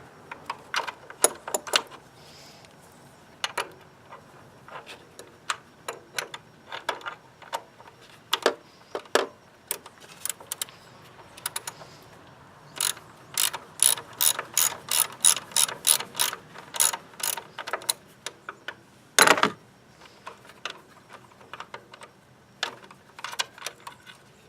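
Ratchet wrench with a 9/16-inch socket clicking in short runs as the PCV valve is unscrewed. The clicks come sparsely at first, then in quick runs for several seconds. There is one louder knock about nineteen seconds in.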